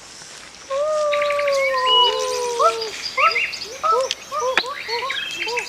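Animal calls: one long, slowly falling call, then a run of short rising-and-falling calls about twice a second, with higher bird-like chirps over them.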